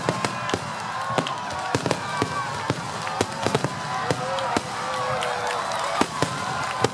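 Fireworks display: many sharp bangs and crackles of shells bursting in quick, irregular succession.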